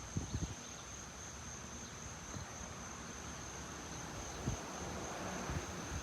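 Steady high-pitched chirring of crickets, with a few low thumps near the start and about four and a half seconds in, and a faint broad rush that grows slightly near the end.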